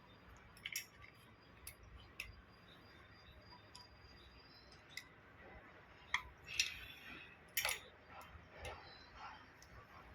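Scattered light clicks and clinks of small parts being handled during pump repair work. Several sharper clinks come between about six and eight seconds in.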